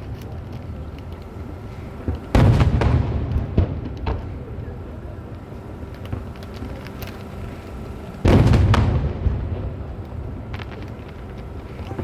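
Aerial fireworks shells bursting: two heavy booms about six seconds apart, each rolling off over a second or so, with a few smaller pops and cracks between them.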